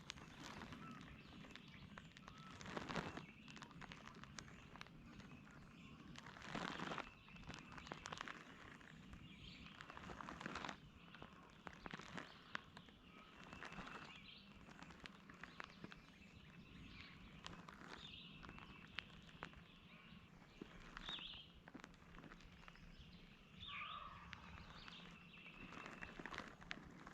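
Faint woodland ambience: small birds chirping now and then, with a few brief rustles, like steps or movement in dry leaves.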